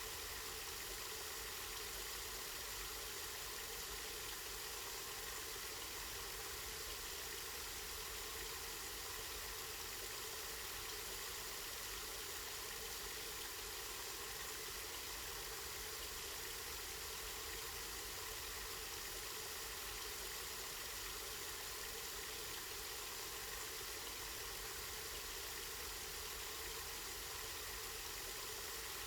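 Spring water running and splashing steadily, an even rushing sound that does not change.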